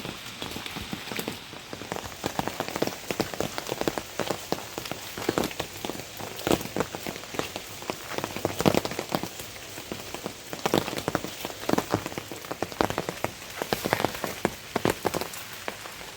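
Rain falling, with many close, irregular drop hits pattering over a steady hiss.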